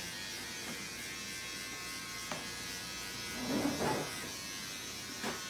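Electric hair clippers running with a steady buzz while shaving a head bald.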